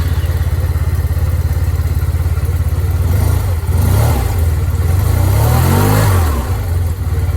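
Yamaha TMax 500's parallel-twin engine running just after a cold start, idling steadily. It is blipped twice: a short rev about four seconds in, then a higher rev near six seconds that drops back to idle.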